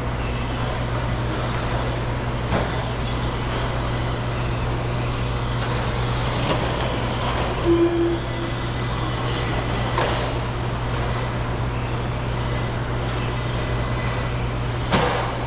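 Electric RC stadium trucks running on a dirt race track over a steady low hum, with a few sharp knocks from the trucks landing or hitting things, and a short tone about eight seconds in.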